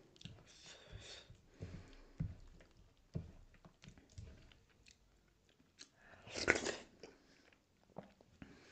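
Close-miked chewing and wet mouth smacks while eating dhido (stiff flour porridge) with sisnu stinging-nettle curry by hand, fingers squishing the wet food in the plate. A louder, longer wet sound comes about six and a half seconds in.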